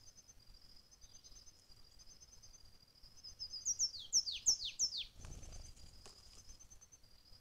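A bird gives about five loud, quick calls, each sliding downward in pitch, followed by a short flutter of wings as a jay lands. Insects chirp steadily in the background.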